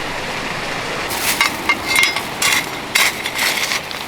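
A hammer strikes metal tent stakes about eight times in an irregular run, each strike sharp and ringing, over a steady background hiss.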